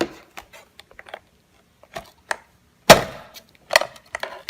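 Plastic clicks and knocks from the ILIFE A4s robot vacuum's dustbin being popped out and handled. The loudest knock comes about three seconds in, and a few more follow shortly after.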